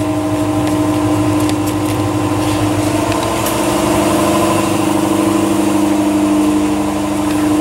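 Chevrolet Corvette C5 Z06's V8 idling steadily through its stock exhaust.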